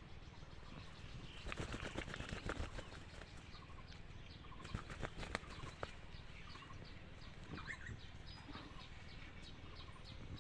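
A dove's wings flapping in two bursts of rapid clatter, starting about a second and a half in and again about five seconds in. Small birds chirp repeatedly in the background.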